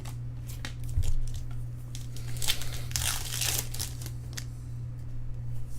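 Foil wrapper of a trading card pack crinkling and tearing open, with small clicks of cards being handled. The loudest crinkling comes about two and a half to three and a half seconds in.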